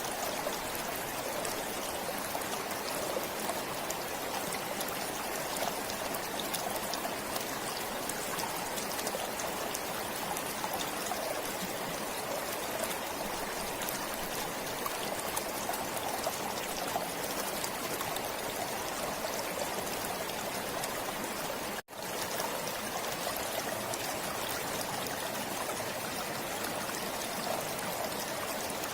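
Stream water flowing and trickling steadily. The sound cuts out for an instant about three quarters of the way through, then carries on as before.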